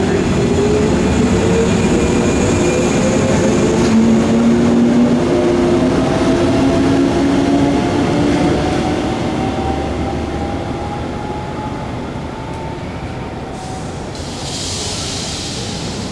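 JR 115 series electric multiple unit pulling away from a station: its traction motors and gears whine, rising steadily in pitch as it picks up speed over rumbling wheels. The sound fades from about halfway through as the train draws away.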